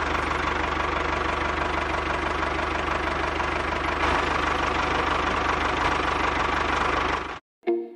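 A small engine running steadily, with a low rumble, cutting off abruptly near the end.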